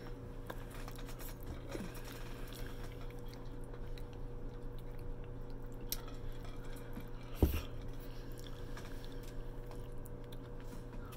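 Close-up chewing of a mouthful of stuffed cabbage, with small clicks of chopsticks picking at the food in a glass bowl. About seven and a half seconds in there is one sharp knock. A steady low hum sits underneath.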